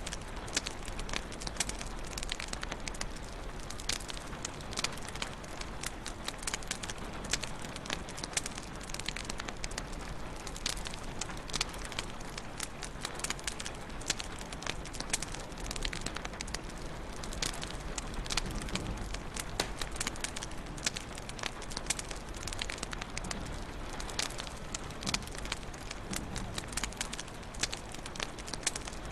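Wood fire crackling in a fireplace: dense, irregular pops and snaps over a steady hiss and low rumble of the burning logs.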